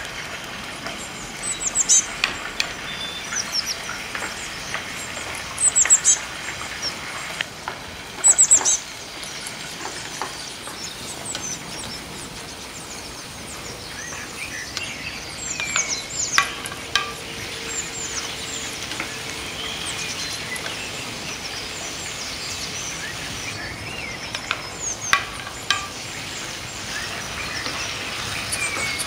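Birds chirping in short, high, falling chirps, in scattered clusters, over a steady hiss.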